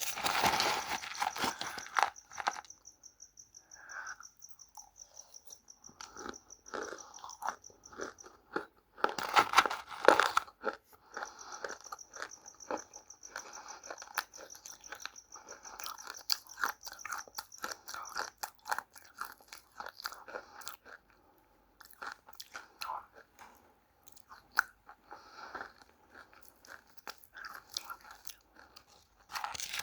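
Close-up biting and chewing of dry clay pieces (multani mitti, fuller's earth, and red clay), a run of crisp crunches and small mouth clicks. The biggest crunches come right at the start and again about ten seconds in.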